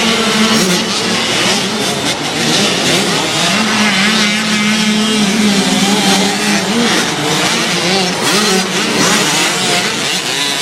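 Motocross bikes racing, their engines revving with the pitch rising and falling as the riders work the throttles.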